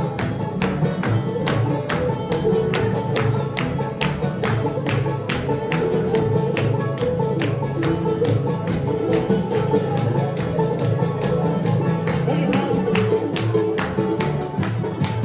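Bluegrass band playing live, with plucked strings and a steady beat of sharp strokes about two and a half times a second.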